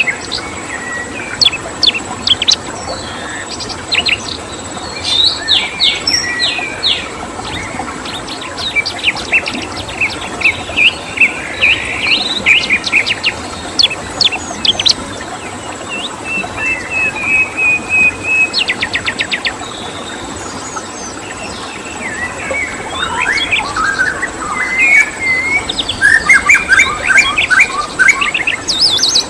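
Several small birds chirping and trilling in quick, overlapping bursts of rapid notes over a steady hiss of running water, with a constant high thin tone underneath.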